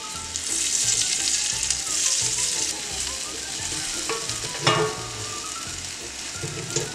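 Beaten eggs with sausage, potatoes and peppers sizzling in a hot cast-iron skillet while a wooden slotted spatula stirs and scrapes through them. The sizzle is loudest in the first few seconds, and one sharper knock of the spatula on the pan comes near the middle.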